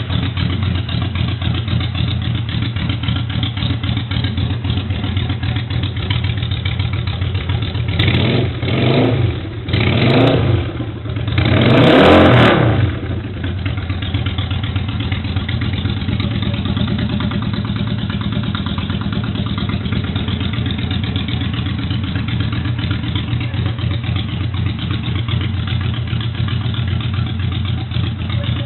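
Yamaha XV535 Virago's air-cooled V-twin engine idling steadily, with three short throttle blips about a third of the way in, the third the longest and loudest, before it settles back to idle.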